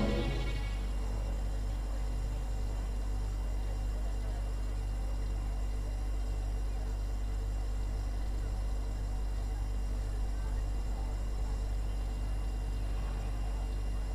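A steady low hum with no distinct events in it.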